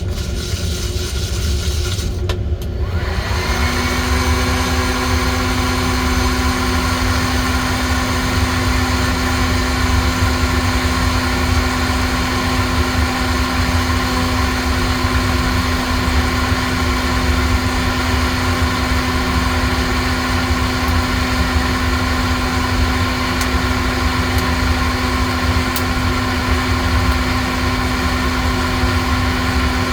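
Electric motor of home coffee-roasting equipment spinning up about three seconds in, then running at a steady pitch over a constant rushing noise.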